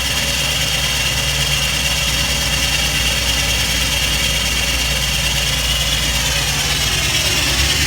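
Ford 7.3 L Power Stroke V8 turbo-diesel idling just after a cold start in about one degree of frost-free cold, running steadily. A high whine over it falls in pitch near the end.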